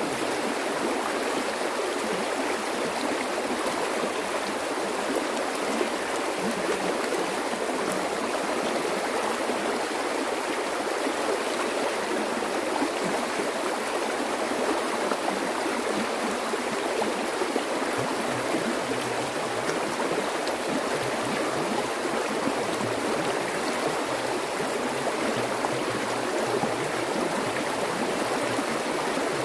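Flowing water running steadily.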